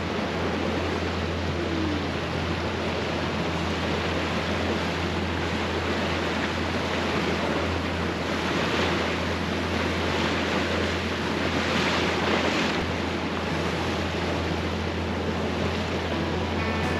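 Ranger Tug R-27 outboard cruiser running at slow cruise: a steady low engine drone under water rushing along the hull and wind on the microphone, with a few louder surges of splashing water about eight to thirteen seconds in.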